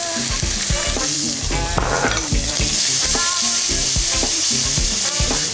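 Diced bacon and small pickling onions sizzling steadily in hot olive oil in a pan while the pan is shaken to toss them.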